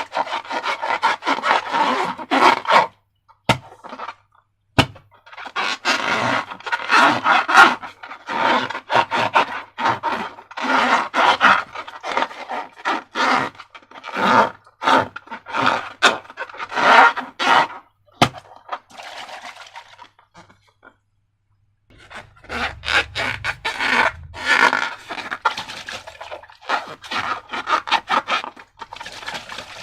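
Slime being handled and squished by hand, a dense run of sticky crackles and squelches in long bursts, with two short pauses.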